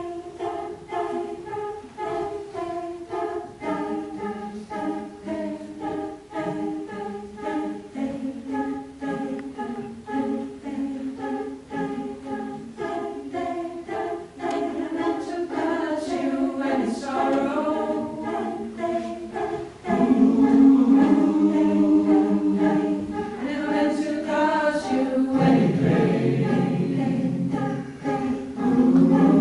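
Choir singing a cappella: short, evenly pulsed repeated notes at first, then fuller sustained chords that get louder about two-thirds of the way in.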